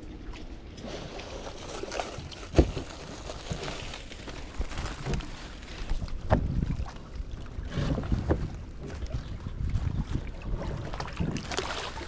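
Wind gusting on the microphone, with irregular knocks, clicks and rustling of things being handled; a sharp knock about two and a half seconds in is the loudest.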